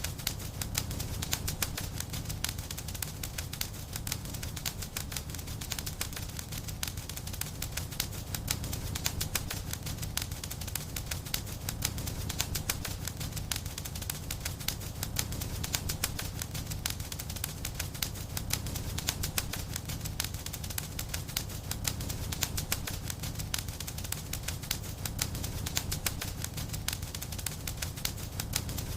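Wood fire crackling: a dense, steady stream of small snaps and pops over a low rumble of burning.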